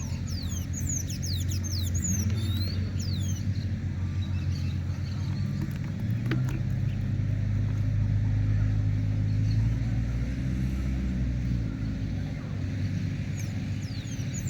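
A steady low rumble, with quick, high, falling bird chirps over it in the first few seconds and again near the end.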